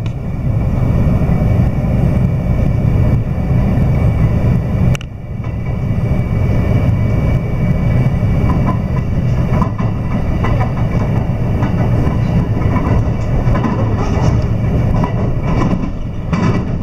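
Electric train running at speed, heard from inside the carriage: a steady rumble of the wheels on the rail with a faint steady whine above it and occasional clicks. The noise dips briefly about five seconds in.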